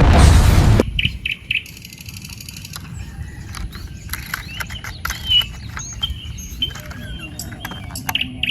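Small birds chirping and tweeting in short, quick calls. A loud noisy sound cuts off abruptly just under a second in.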